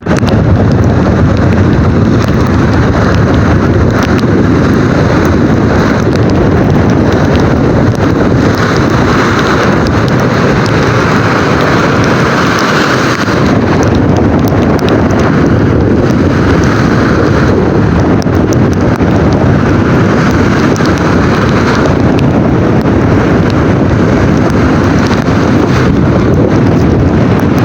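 Tropical storm: strong wind buffeting the microphone, with heavy rain. It is a loud, steady noise, with gusts swelling now and then.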